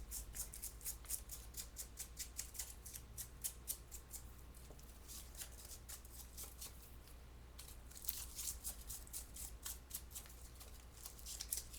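Light, quick brushing strokes, several a second, as loose glitter is brushed off glittered craft flowers, with a lull of a couple of seconds in the middle. A steady low hum lies underneath.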